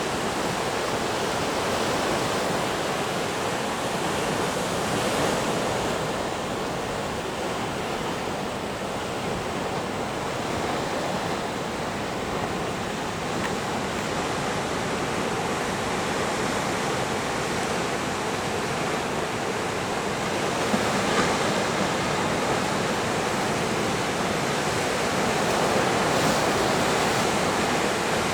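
Pacific Ocean surf breaking and washing ashore: a steady rush of noise that swells and eases gently.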